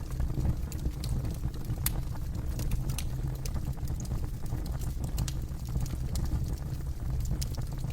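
Campfire burning: frequent, irregular sharp crackles and pops of burning wood over a steady low rush.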